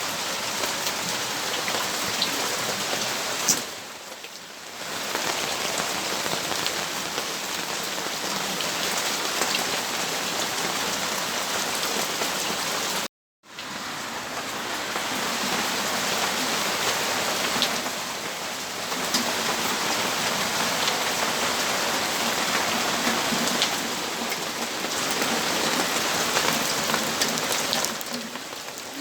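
Steady rainfall, an even hiss of rain hitting surfaces, dipping briefly about four seconds in and cutting out completely for a split second about halfway through.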